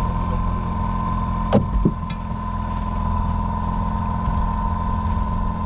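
Boat motor running steadily with a constant whine, and two sharp knocks about a second and a half in.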